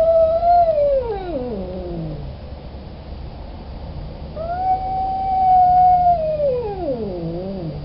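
Male cat in heat howling: two long, drawn-out yowls, each held on a steady pitch and then sliding down into a low, wavering moan, the second beginning about halfway through. It is the mating call of an unneutered tom.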